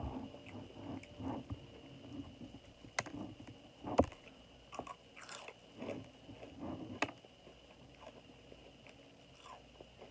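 Close-up chewing and biting of crispy fried chicken, with crunches of the breading at irregular intervals and a few sharp clicks in between.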